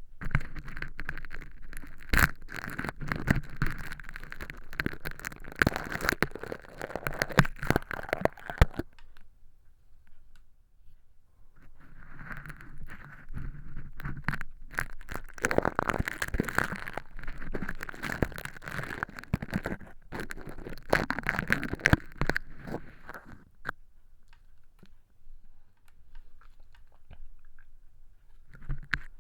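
Ear-cleaning tools working crispy fake earwax made of crushed hologram film inside a clear silicone ear model, giving a dense crinkly crackling. It comes in two long spells of about nine and eleven seconds with a pause between, and starts again near the end.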